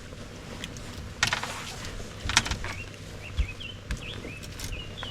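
A bird calling in short repeated chirps over the second half, with a few sharp knocks and rattles on the boat and a steady low hum underneath.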